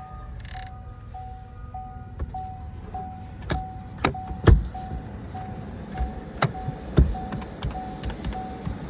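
An electronic warning beep repeating evenly, nearly twice a second, with several sharp knocks and clicks mixed in, the loudest about halfway through.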